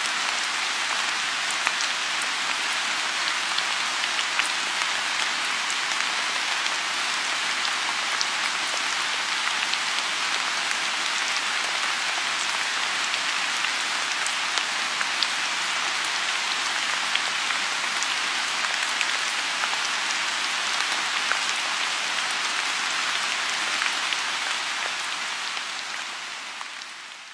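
Steady rain falling on a lotus pond: a dense even hiss dotted with the ticks of single drops. It fades out over the last few seconds.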